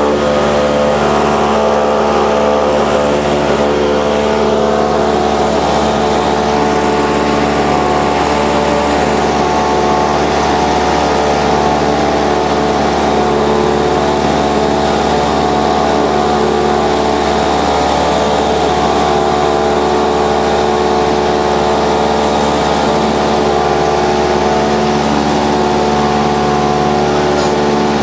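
Light aircraft's piston engine and propeller running steadily, heard from inside the cabin.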